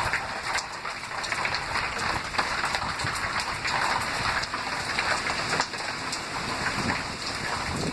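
Heavy thunderstorm rain pouring steadily, a dense patter of drops striking a surface.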